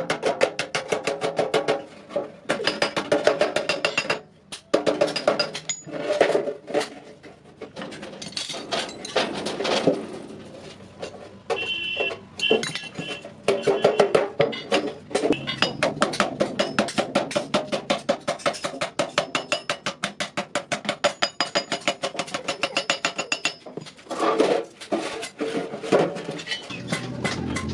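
Rapid hammering on iron, a fast run of ringing metal-on-metal strikes broken by a few short pauses.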